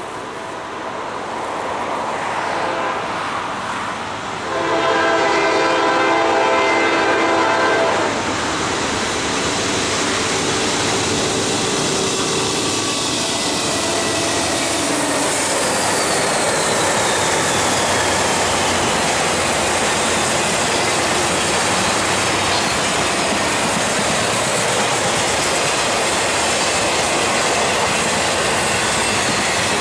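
Norfolk Southern intermodal freight train led by three GE Dash 9-40CW diesel locomotives: a horn blast of about three seconds, starting about four seconds in, then the train approaching and passing, with the locomotives and the trailer-laden flatcars rolling by on the rails.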